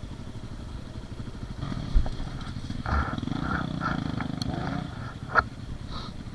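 Dirt bike engine running at low speed on a trail, the throttle opened up a little about a second and a half in, with a few sharp knocks from the bike over rough ground.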